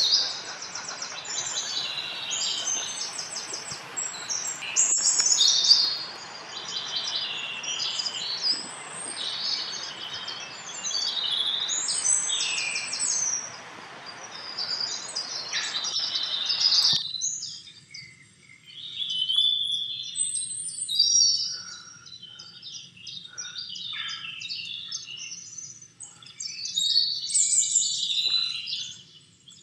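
Songbirds chirping and singing, a busy run of short, high chirps and trills. A steady background hiss cuts off suddenly about 17 seconds in, and the birds carry on after it.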